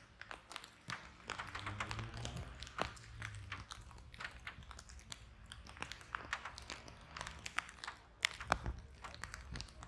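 Wood fire in a fireplace crackling and popping: irregular sharp snaps over a soft hiss and low rumble of the flames, with a few louder pops near the end.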